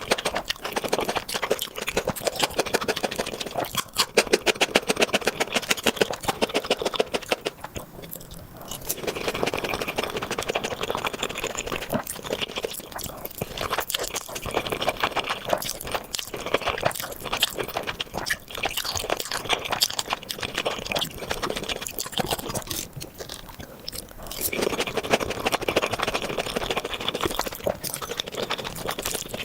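Close-miked ASMR eating: a person chewing and biting food with dense, rapid crackly mouth clicks, easing off briefly twice.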